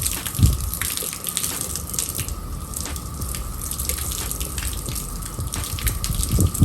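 Rinse water spraying and splashing steadily onto a car window and running off the glass, used to test water beading and sheeting on freshly applied waterless-wash coatings. There is a low thump about half a second in and another near the end.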